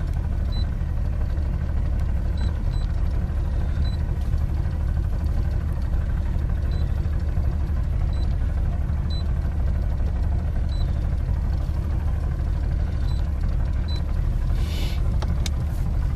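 Boat motor running steadily underway, a constant low rumble. A few faint short high beeps sound now and then.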